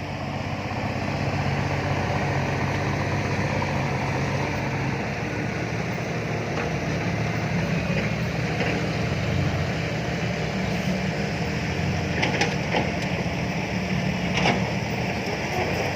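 Heavy diesel engine running steadily, with a few light knocks near the end.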